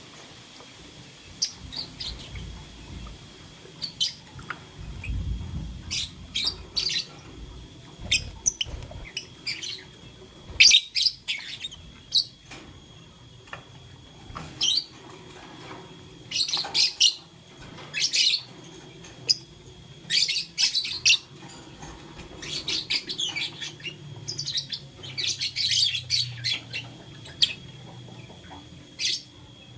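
Lovebirds chirping: short, high chirps in scattered bursts, coming thicker and more often in the second half.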